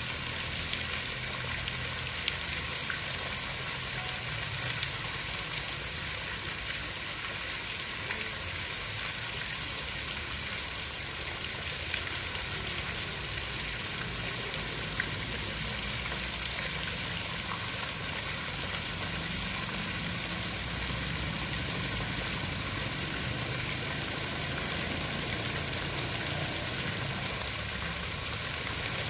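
Steady hiss of water with a low rumble underneath, broken by a few faint ticks of drops.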